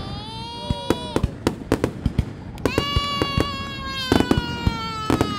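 Fireworks going off: a steady run of sharp bangs and pops, thickest around four seconds in, over two long whistles that fall slowly in pitch.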